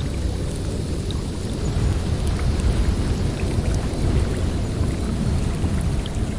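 Blizzard wind blowing through a forest: a steady, low rumbling rush that swells and eases in gusts.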